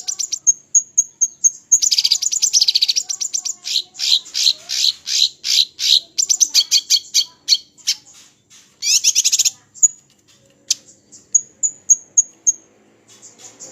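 Small songbird singing loud, fast high-pitched trills and rapid chattering note series, then a sparser string of short, sharp repeated whistles near the end.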